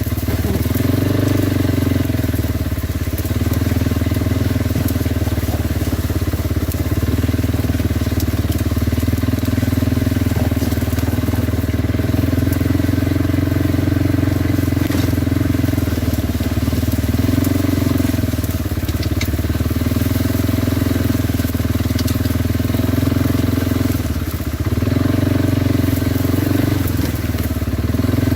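Kawasaki Brute Force 300 ATV's single-cylinder engine running under way, its pitch rising and easing a little several times with the throttle.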